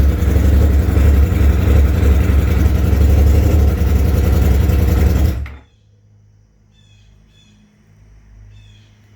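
2016 Yamaha R1's crossplane inline-four engine running steadily, then cut off abruptly about five and a half seconds in; the bike has a misfire being traced. After it stops, birds chirp faintly in short repeated calls.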